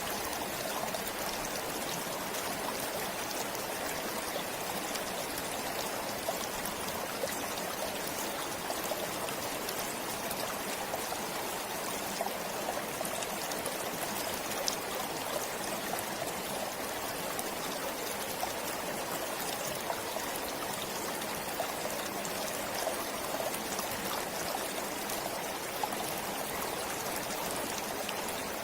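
Forest stream flowing steadily: a continuous rush of water with small splashes and drips scattered through it.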